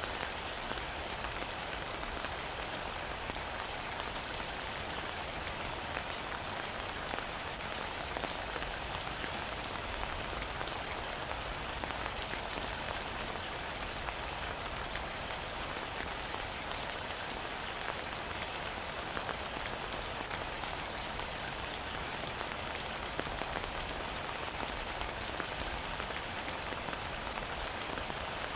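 Steady heavy rain pattering on a surface, a dense even hiss dotted with many small drop ticks.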